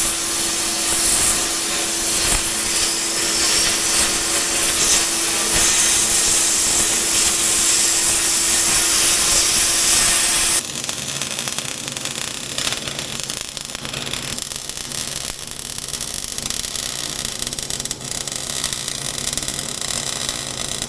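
A power tool working steel: a loud hiss with a steady tone, which drops and changes to a different, lower-toned running sound about halfway through.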